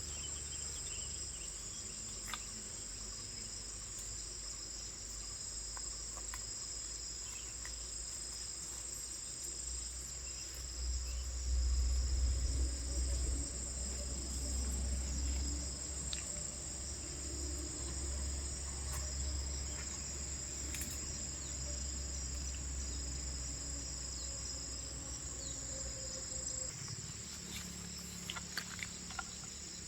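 A steady high-pitched chorus of crickets and other insects, over a low rumble that swells for a few seconds near the middle, with a few scattered clicks.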